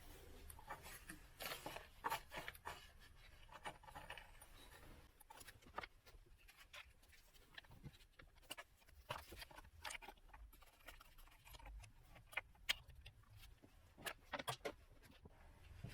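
Faint, scattered clicks and light knocks of hand tools and small metal parts being handled, over a low steady hum.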